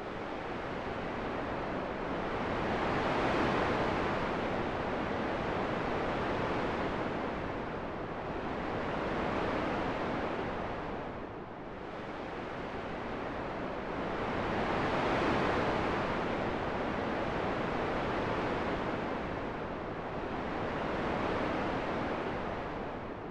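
Rushing wind that swells and fades in slow gusts, dipping low about halfway through.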